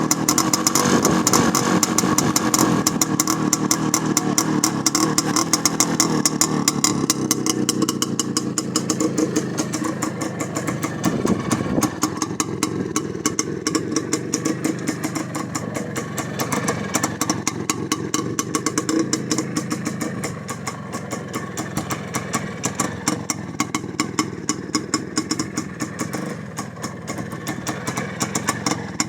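Izh Planeta 5's single-cylinder two-stroke engine running at a steady speed as the riderless motorcycle moves along, its loudness swelling and sagging a little.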